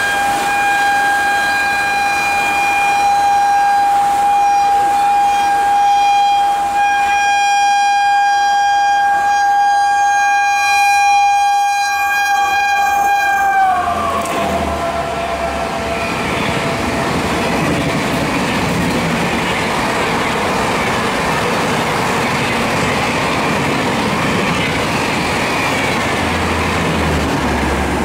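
WAP4 electric locomotive's horn sounding in one long continuous blast as the express approaches at speed, its pitch dropping about 14 seconds in as the locomotive passes. After that comes the steady rush of the passenger coaches going by at speed.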